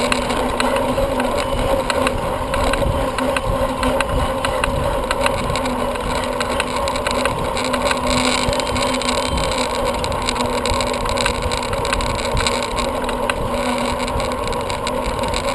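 Steady rushing noise of a bicycle ride recorded on a GoPro: wind over the microphone and tyres rolling, with a faint even hum.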